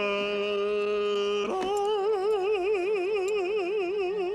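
A man singing a drawn-out 'la' in a high, operatic voice. He holds one steady note for about a second and a half, then moves to a slightly higher note with a wide, exaggerated vibrato.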